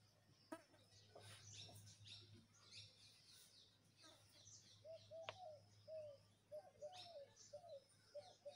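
Faint birdsong: small birds chirping in quick high notes, joined about five seconds in by a repeated short call of rising-and-falling notes, about three a second. A steady low hum runs underneath.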